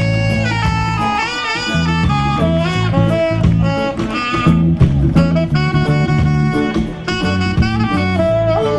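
Saxophone solo over a live reggae band, with bass and drums keeping a steady groove under the melody.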